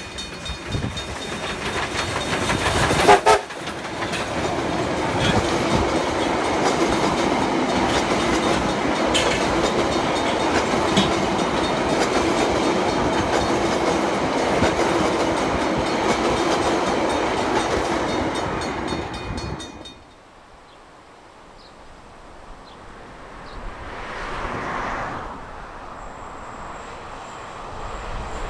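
A train sounds a short horn blast about three seconds in, then runs past with steady wheel and engine noise that drops away suddenly about twenty seconds in.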